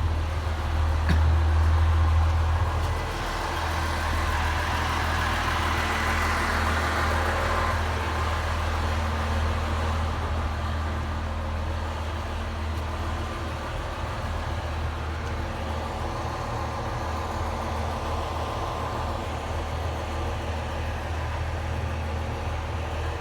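A heritage diesel train's engine running steadily with a low hum. It is louder for the first few seconds, then settles a little quieter.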